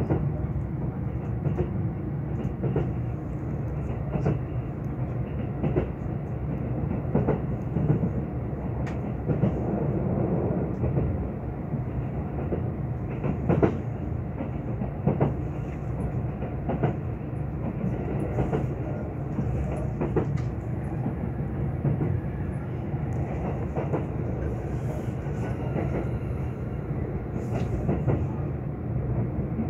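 Kintetsu 22600-series Ace limited express running, heard from inside the passenger cabin: a steady rumble with sharp wheel clicks over the rail joints every second or two.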